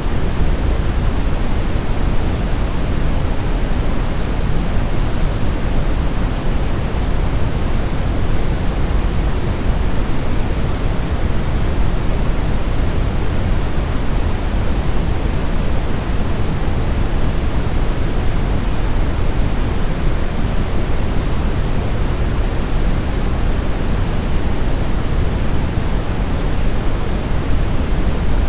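Steady brown noise: a deep, even hiss weighted toward the low end, with no changes.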